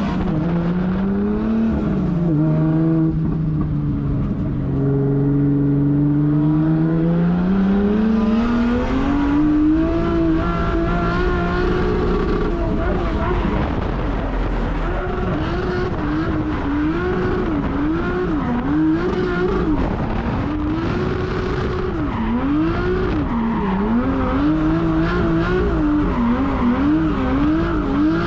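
1.5JZ straight-six in a drift car running hard on track: the engine note falls, climbs steadily for several seconds, then swings rapidly up and down every second or so as the throttle is worked through the drift, with some tyre squeal.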